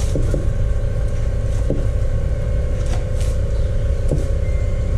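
A steady low mechanical rumble with a constant hum, and a few light knocks.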